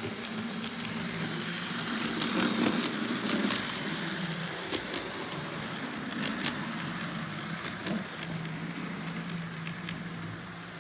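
Lima HO-scale model locomotive with its G (pancake) motor, driven by a DCC decoder, running along the track: a steady motor hum with scattered clicks from the wheels on the rails, loudest a couple of seconds in. The running is somewhat sketchy, which the owner takes as a sign it could benefit from a capacitor power pack.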